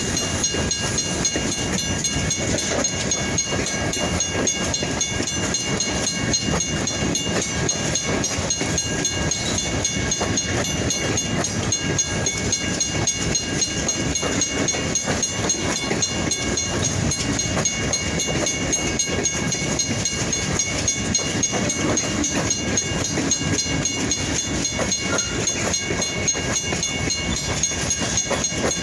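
Long freight train's cars rolling past: a steady rumble of wheels on rail with rapid clicking, over a steady high whine.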